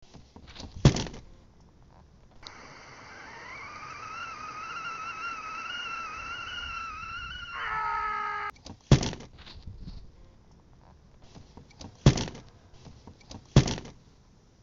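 Loud sharp thuds about a second in, at about nine seconds, and twice near the end; the last two come as a mallet is swung. Between them a whine rises in pitch, then holds and wavers for about five seconds before giving way to a brief steady chord.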